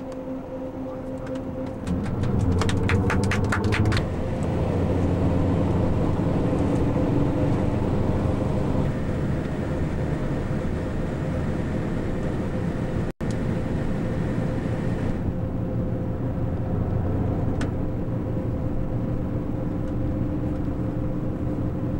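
Steady drone of a moving vehicle's engine and running gear, with a short run of fast clicking a few seconds in and a momentary break about halfway.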